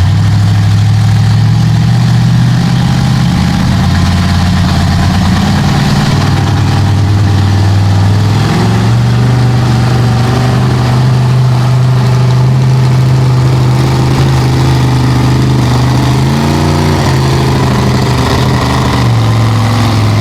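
Big-engined mega truck running loud and steady, with its engine pitch stepping up about eight seconds in and surging briefly near the end, as under load pulling a sled.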